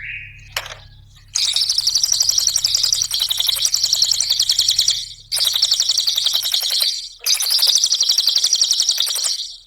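Cililin songbird singing three long, very fast chattering trills of rapid high repeated notes, each lasting a few seconds with short breaks between, after a brief note and a click in the first second.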